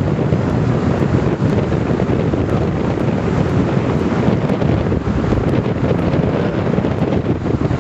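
Loud, steady wind buffeting the camera microphone, a low rumbling rush throughout.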